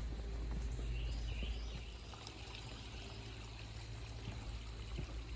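Water trickling and pouring steadily, with a few faint clicks.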